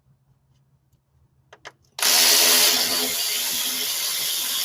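Two light clicks, then a power tool starts suddenly about two seconds in and runs steadily, backing out a screw that holds the plastic under-engine shield.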